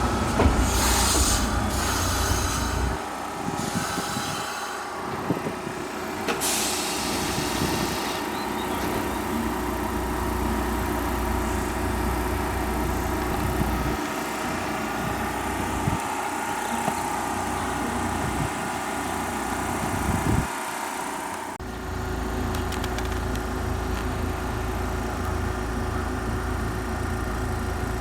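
Kintetsu electric train at a station platform: short hisses of air in the first few seconds, then a steady hum and rumble that shifts about 21 seconds in.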